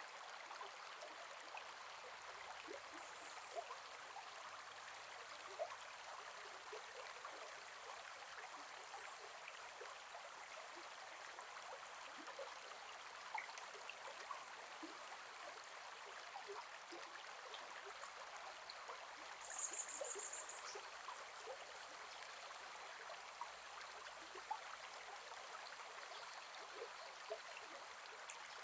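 Gentle forest river flowing steadily, a soft even rush with small trickles and plops of water over stones. A brief high-pitched chirp comes about two-thirds of the way in.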